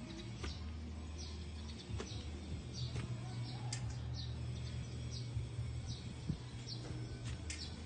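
Small birds chirping in short, high, repeated notes over a low steady hum.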